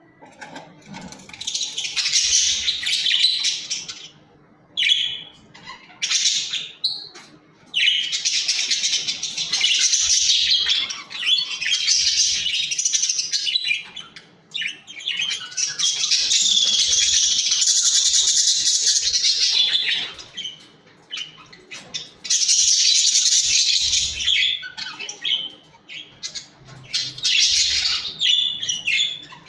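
Pet budgerigars (budgies) chattering and warbling: fast, high chirping in bursts of one to four seconds with short pauses between.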